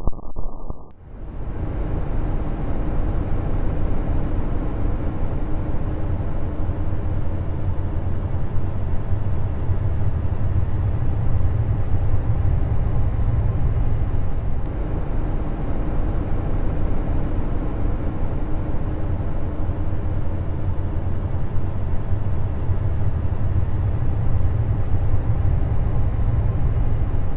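A steady, dense rumbling drone with a faint hum running through it, starting about a second in: a 'planet sound' of the kind made by converting spacecraft recordings of a planet's radio and plasma-wave emissions into audio.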